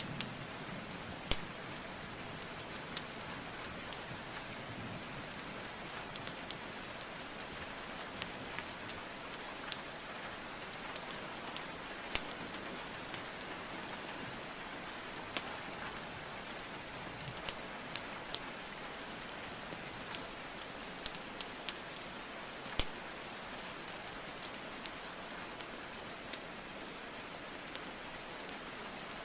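Steady rainfall hiss with irregular sharp pops and snaps of burning wood logs in a fireplace scattered through it, a few of them louder than the rest.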